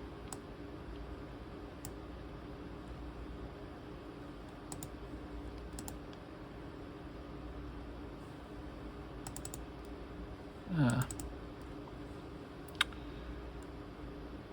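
Scattered faint clicks of a ThinkPad T23 laptop's mouse buttons and keys over a steady low hum, with one sharper click near the end. A short murmured vocal sound comes about eleven seconds in.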